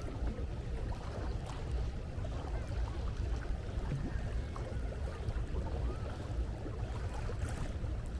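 Seaside ambience: a steady low rumble of wind buffeting the microphone over a faint wash of sea.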